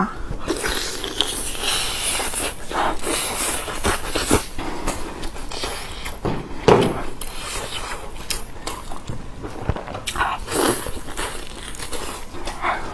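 A person eating close to the microphone, chewing and biting food with irregular crackly, smacking mouth sounds.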